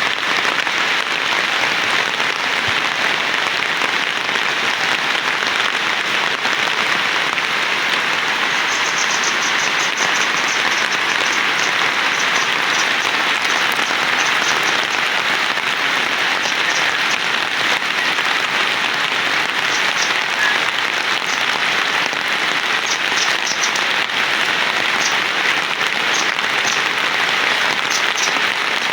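Heavy rain falling steadily, a dense even hiss that does not let up. Faint short high chirps come in quick runs from about a third of the way in.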